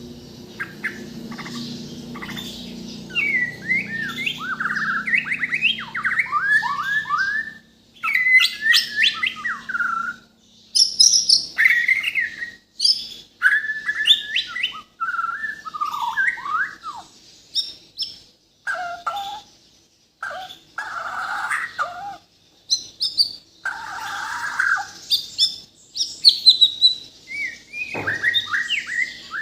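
Bornean white-rumped shama (murai batu) singing a long, varied song packed with imitated phrases: quick runs of rising and falling whistles, trills and sharp high notes, with brief pauses between phrases.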